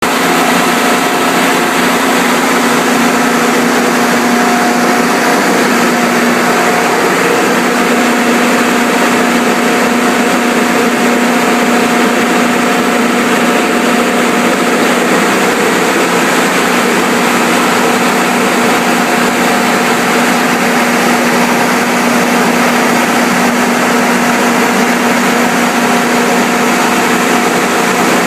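Kohler 150 standby generator engine running steadily during its test cycle, a constant drone with a steady hum.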